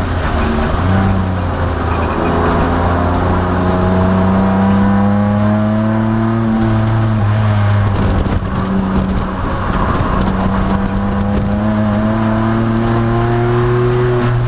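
2002 Nissan Maxima race car's engine at full throttle in a race, heard from inside the car, its pitch slowly climbing as it pulls. About eight seconds in the note breaks off briefly, as on a lift or gear change, then it picks up and climbs again.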